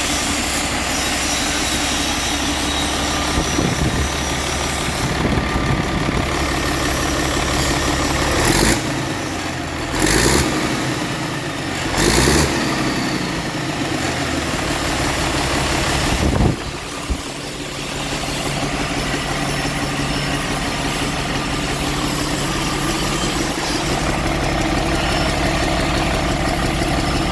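Mitsubishi 6D22 six-cylinder diesel engine running steadily at idle. Three short, louder bursts come through in the middle, and the low rumble briefly dips and changes note a little past halfway before settling again.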